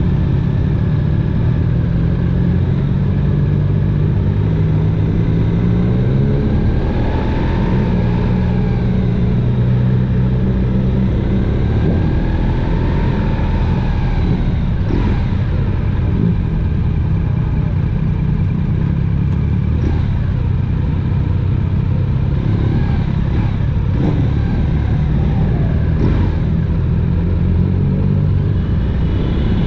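Motorcycle engine running under way, its note rising and falling a few times with the throttle, over a steady rumble of road and wind noise.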